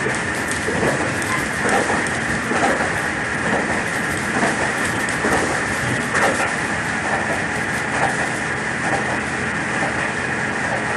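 Steady running noise of a moving vehicle, with faint irregular knocks about once a second over a continuous hiss.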